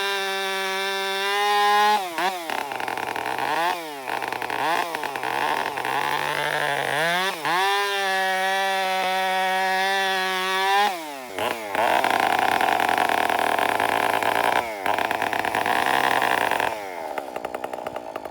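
Two-stroke chainsaw running at full throttle with a high, steady pitch, then bogging down and wavering several times as the chain is pushed into dirty wood to blunt it. The engine speed recovers in between and drops away near the end.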